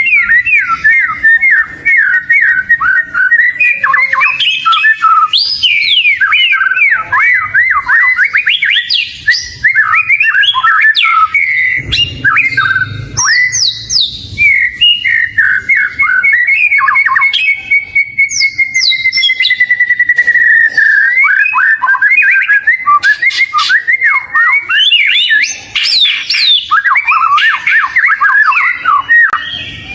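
Oriental magpie-robin (kacer) singing a fast, varied, nonstop song of whistles, chirps and harsh notes. About two-thirds of the way through it holds one long whistle that falls slightly in pitch, then runs straight back into quick phrases.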